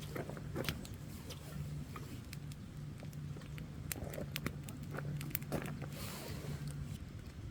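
Wood campfire crackling, with irregular sharp pops and snaps and a brief hiss about six seconds in. A low steady hum runs underneath and stops about seven seconds in.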